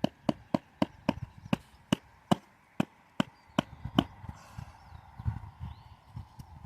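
A tent peg being hammered into the ground: about a dozen sharp, ringing strikes that slow down over four seconds, then stop.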